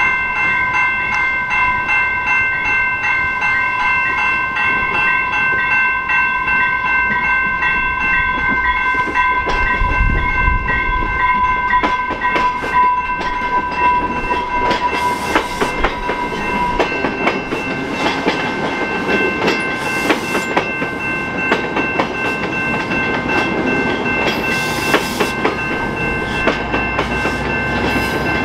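EXO commuter train rolling by, its wheels clicking over rail joints, the clicks growing denser after about a third of the way in. A steady high ringing runs underneath, and its lowest tone stops a little past halfway.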